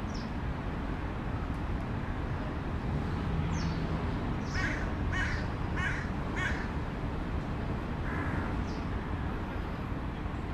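Four harsh bird calls in quick succession, about two-thirds of a second apart, around the middle, with a fainter one shortly after, over a steady low background rumble. A few brief, faint, high chirps come and go.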